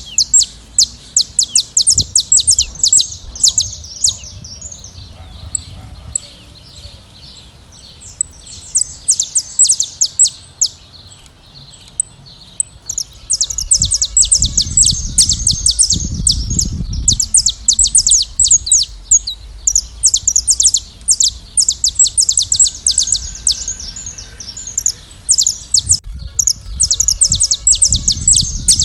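A flock of saffron finches singing and chirping: dense runs of rapid high chirps, in bursts with short lulls between them. A low rumble joins about halfway through and again near the end.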